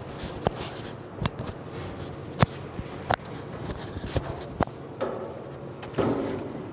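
Scattered clicks and knocks of metal parts and hand tools being handled during hood hinge bracket fitting, with two short rough bursts near the end.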